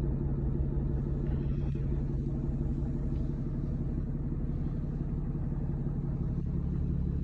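Diesel pickup truck engine idling steadily and smoothly, purring; it sounds healthy.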